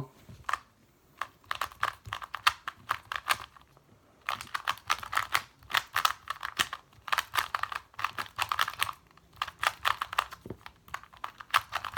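Magnetic 2x2 speed cube turned rapidly through a solve: bursts of fast plastic clicking, broken by short pauses.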